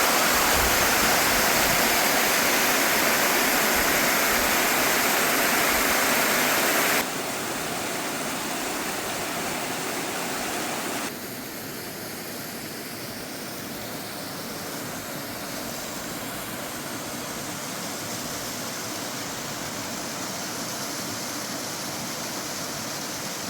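Sanjo Falls, a small mountain waterfall, pouring steadily into its plunge pool. The sound drops sharply about seven seconds in and again about eleven seconds in.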